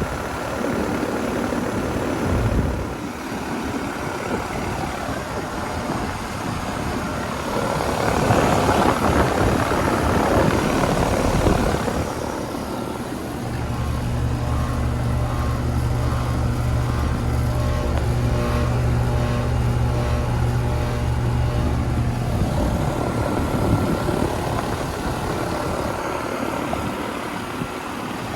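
Rheem Classic 1.5-ton air conditioner starting up and running: a steady rushing of fan air, with a strong low steady hum that comes in about thirteen seconds in and fades out around twenty-two seconds.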